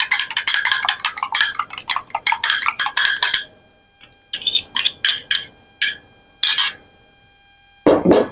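A fork clinking and scraping rapidly against a mixing bowl as tuna is mashed and stirred, stopping after about three and a half seconds. Then a few separate clinks of utensil on bowl, and a louder knock near the end.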